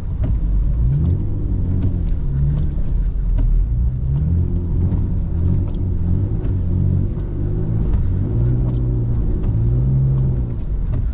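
BMW E39's engine pulling through deep snow, its revs rising and falling again and again, with scattered light knocks and clicks.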